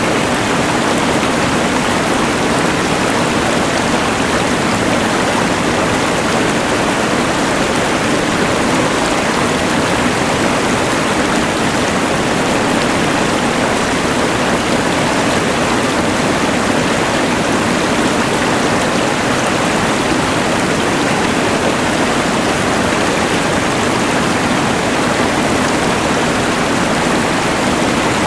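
Rushing mountain river layered with a LectroFan white noise machine: a steady, even rush of water and hiss that does not change.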